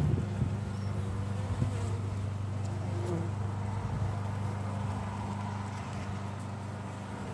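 Honeybee colony buzzing steadily in an open nuc box, with a couple of short knocks from frames being handled near the start.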